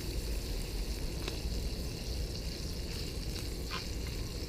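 Diced ham frying in butter with rosemary and salt in a pie iron over a campfire: a steady sizzle with a few small pops.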